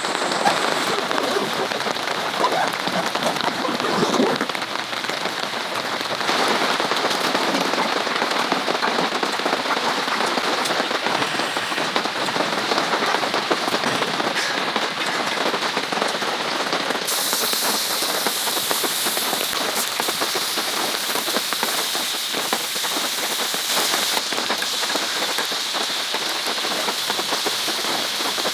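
Steady rain pattering on a surface, a dense spread of small drop ticks; about two-thirds of the way through the sound turns brighter and more hissy.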